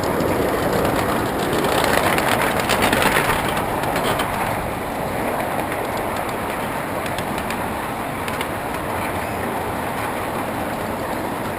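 Miniature ride-on steam train running along the track: a steady rumble of wheels on rail with fast clicking and rattling, loudest about two to four seconds in, then settling.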